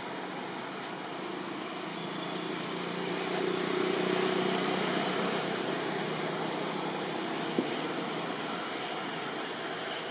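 A passing engine hum that grows louder three to five seconds in and then fades, with a single sharp click near the end.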